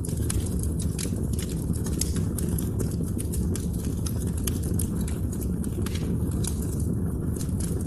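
Wood fire burning: a steady low rumble of the flames with frequent sharp, irregular crackles and pops.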